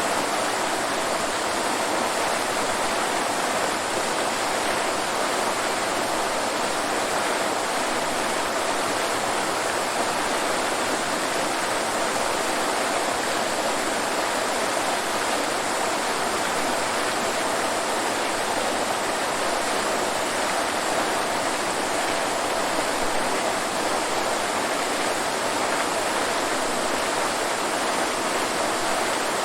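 Waterfall: water falling and rushing in a steady, unbroken roar of white noise, with no change over time.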